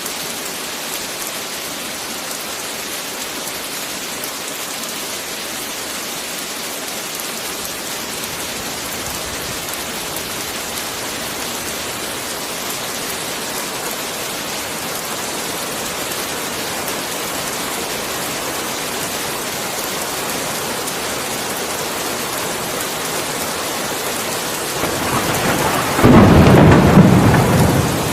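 Steady heavy rain, with a thunderclap near the end: a rumble builds, then breaks into a loud crack and roll lasting about two seconds before easing.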